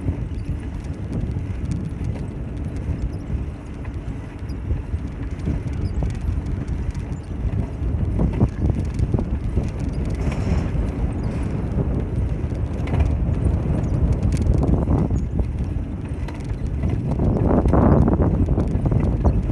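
Bicycle on the move: a steady rumble of the tyres rolling on the street, with continuous fine rattling from the bike, swelling louder a few times, most near the end.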